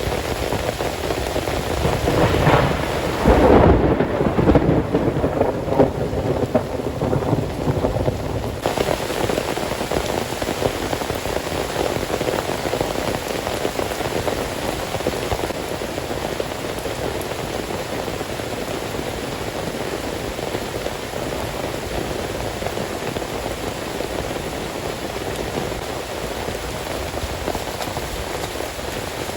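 Heavy rain falling steadily. A few seconds in, a peal of thunder rumbles up, loudest around four seconds, and dies away over the next several seconds.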